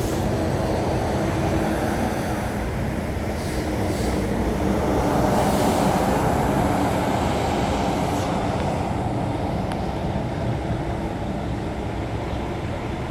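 Heavy rain falling: a steady rushing noise with a deep low rumble, swelling a little about halfway through.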